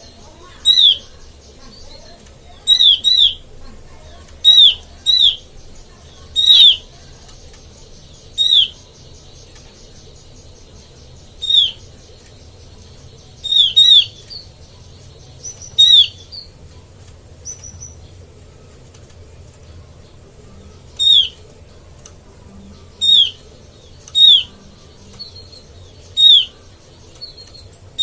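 Opior, an Indonesian white-eye, giving short sharp downward-slurred calls, singly or in quick pairs, repeated every second or few seconds as a lure call. A faint steady high buzz runs beneath the calls for much of the time.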